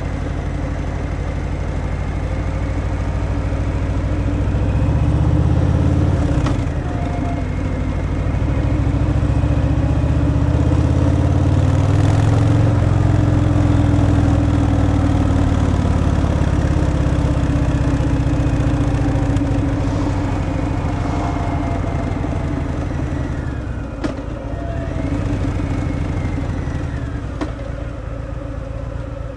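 Harley-Davidson Fat Boy's V-twin running through its stock exhaust while riding. It picks up revs, drops briefly about six seconds in, pulls up again, then eases off slowly, over steady wind and road noise.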